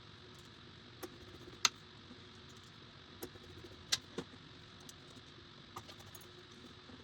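Scattered light metallic clicks and clinks, about half a dozen, from small PC hardware such as fan screws and case parts being handled during fan installation. The clicks sit over a steady faint hiss.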